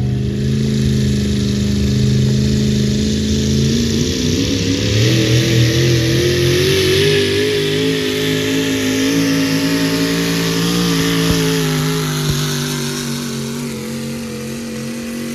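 Engine of a pulling vehicle running hard under load during a pull. Its pitch climbs about four seconds in and holds high, then eases slightly and fades toward the end, over a steady hiss.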